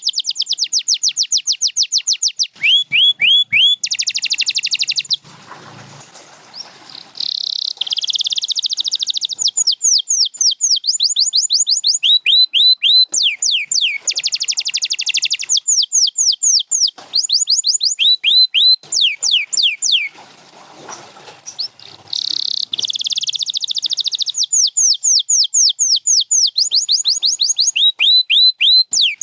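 Canary singing: long rolling trills of fast repeated notes alternating with runs of quick falling whistles, high-pitched. The song breaks off briefly twice, about five seconds in and again about twenty seconds in.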